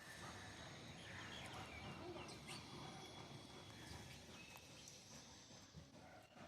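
Faint, scattered garden bird chirps over a low steady outdoor background noise.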